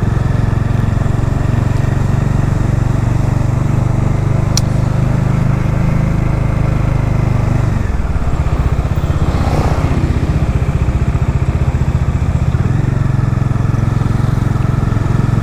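Motorcycle engine running steadily under way, then easing to lower revs about halfway through so that its separate firing pulses can be heard.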